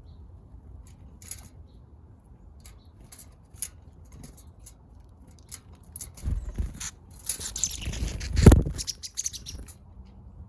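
Small backyard birds pecking and fluttering: scattered sharp taps, then a flurry of quick flaps and taps from about six seconds in, with a heavy thump at about eight and a half seconds, the loudest sound.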